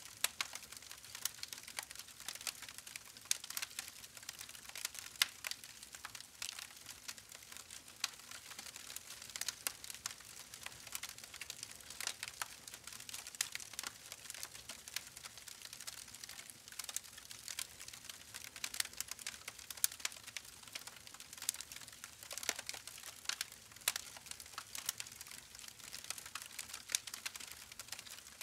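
Campfire burning, with dense, irregular crackling and popping over a faint steady hiss.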